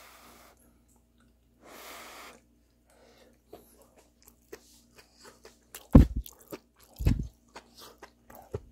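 A person chewing a mouthful of steamed beef tripe close to the microphone: two breaths first, then wet chewing clicks from about three seconds in. Two louder low thumps come about six and seven seconds in.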